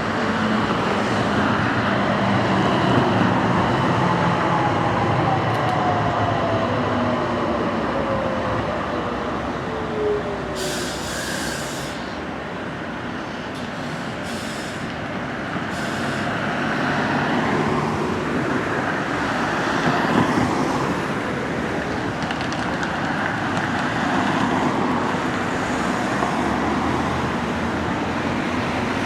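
A Siemens-Duewag Sheffield Supertram tram running on its track, with rail rumble over road traffic noise. A thin whine falls slowly and steadily in pitch over the first ten seconds or so.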